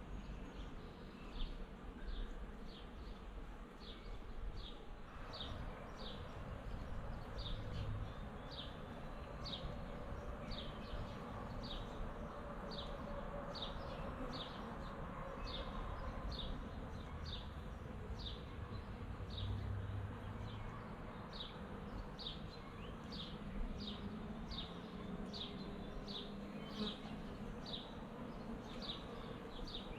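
Honeybees buzzing around a swarm box, a steady hum of many bees, with a series of short high chirps repeating a little more often than once a second.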